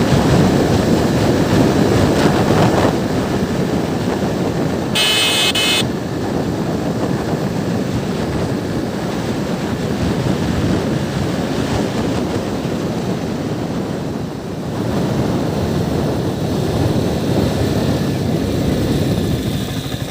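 Motorcycle running at riding speed, its engine buried under a heavy rush of wind on the microphone. A brief high-pitched tone sounds about five seconds in.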